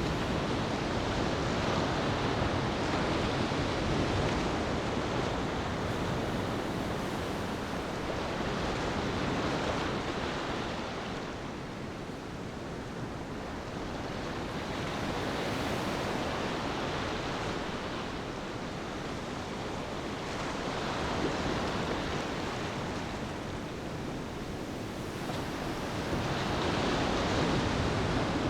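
Ocean waves washing onto a beach, a steady surf hiss that swells and fades every several seconds.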